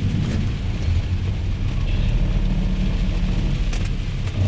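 1992 Camaro RS's swapped-in 4.8 L LR4 V8 running steadily at low revs, a low engine rumble with no hard revving.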